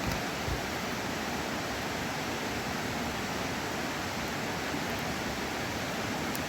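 Steady rushing of water, an even hiss with no let-up. Two soft low knocks come in the first half second.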